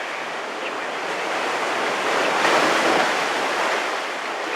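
Sea surf: a steady wash of waves, with one wave swelling and breaking loudest a little past halfway, then subsiding.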